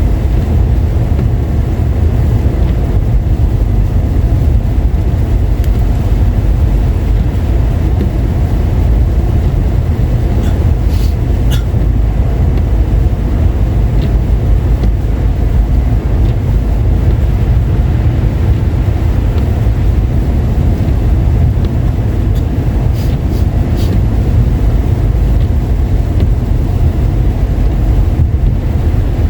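Car driving on a wet, slushy road: a steady low rumble of engine and tyres, with two brief sets of faint clicks, one near the middle and one near the end.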